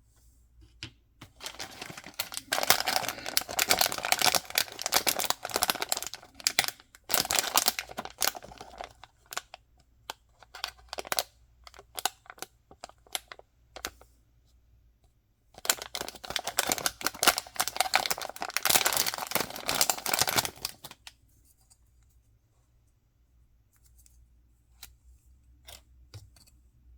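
Toy packaging being torn open and crinkled by hand: two long stretches of dense crackling, one starting a couple of seconds in and one from about sixteen to twenty-one seconds, with scattered clicks and rustles between and a few faint taps near the end.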